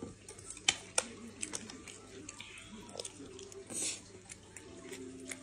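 Close-up eating sounds: a mouthful of rice and braised pork being chewed, with a couple of sharp clicks about a second in and a brief slurp from a spoon near four seconds in.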